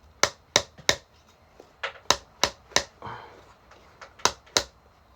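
Hammer blows driving a bolt into a drilled hole in a wooden branch for a bird perch: about nine sharp strikes in three quick runs, three, then four, then two.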